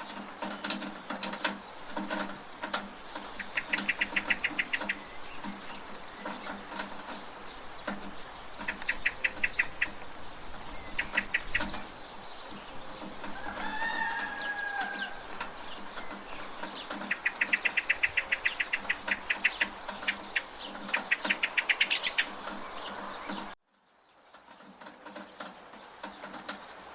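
Village ambience of birds calling in quick chattering trills several times, with a chicken's gliding call about halfway through. Underneath is a steady low pulsing background of rain and a dripping gutter. The sound cuts out suddenly about three-quarters of the way through, then fades back in.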